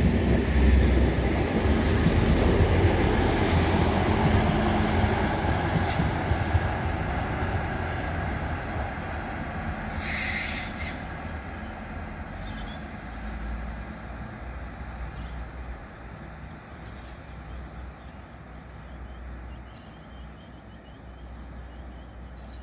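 Diesel passenger railcar running away down the line, its rumble loudest at first and fading steadily as it recedes, with a short hiss about ten seconds in.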